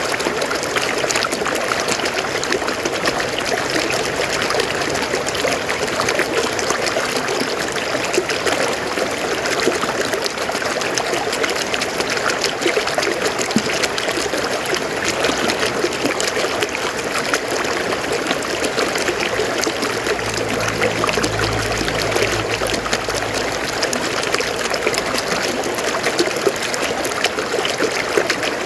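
River water flowing over rocks, a steady rushing flow. A faint low rumble comes in for a few seconds about two-thirds of the way through.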